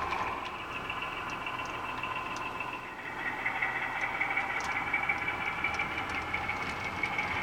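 HO scale model train running: a steady whining hum from the locomotive, with scattered faint clicks from the wheels on the track. The pitch of the whine shifts slightly about three seconds in.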